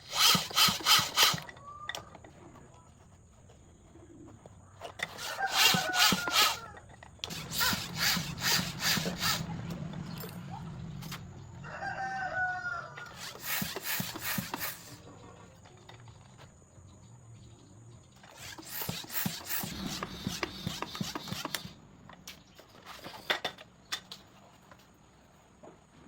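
Several bouts of fast, rhythmic scraping strokes, each lasting a second or two, with pauses between: hand scraping or rasping, as when roughening a punctured inner tube for a patch.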